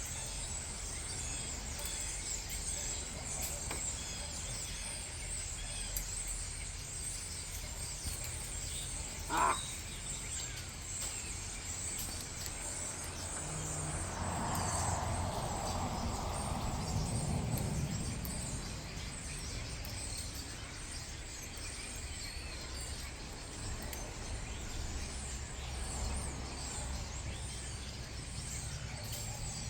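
Large flock of birds calling all at once from the trees, a dense continuous chatter with caw-like calls. A single short sharp sound stands out about nine seconds in, and a louder swell of noise rises and fades around the middle.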